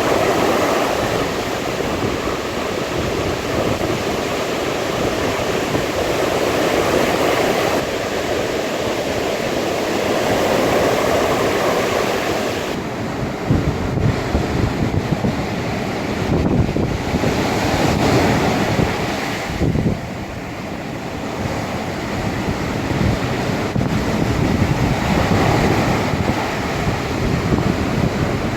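Sea waves breaking and washing ashore in a steady rushing surf that swells and ebbs. From about halfway through, wind buffets the microphone with gusty low rumbles.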